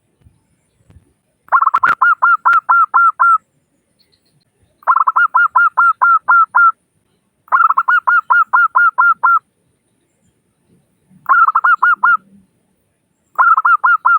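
Zebra dove (perkutut) singing: runs of rapid, evenly spaced cooing notes, five phrases each lasting one to two seconds with short pauses between them.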